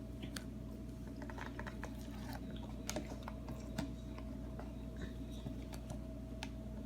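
Faint, scattered small clicks and taps over a steady low hum.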